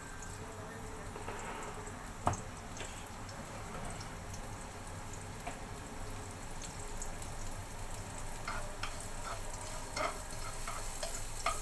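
Garlic sizzling in hot oil in a pan as it fries toward golden brown, with a single sharp knock about two seconds in and scattered pops and crackles near the end.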